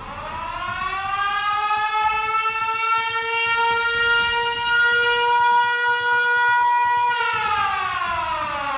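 Siren winding up to a steady wail, holding it, then winding down in pitch about seven seconds in.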